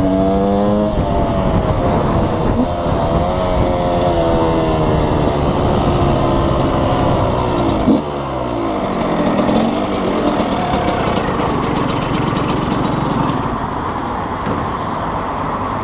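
KTM 125 EXC two-stroke single-cylinder engine under way, revving up through the gears, then about halfway through the revs fall as the bike slows, and it carries on at lower revs. Its carburation is off: the rider says it needs re-jetting.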